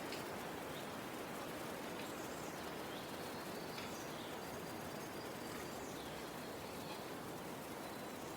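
Outdoor ambience: a steady, even hiss with a few faint, high bird chirps scattered through it.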